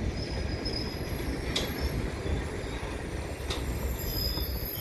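Freight train of covered hopper cars and towed, unpowered Bombardier MR-90 electric multiple-unit cars rolling past: a steady rumble of steel wheels on rail. Two sharp clicks, about a second and a half in and again about two seconds later, come over a faint high wheel squeal.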